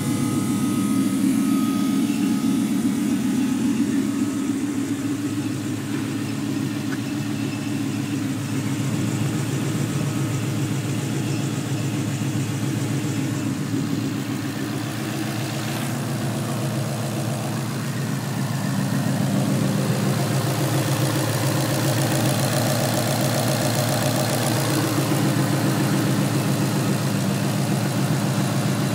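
Coyote 5.0 V8 swapped into a 1993 coupe, idling steadily with an even, low exhaust note.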